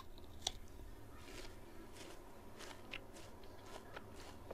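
Someone chewing a mouthful of raw Asian pear, faint crisp crunches of the juicy flesh coming several times, the sharpest about half a second in.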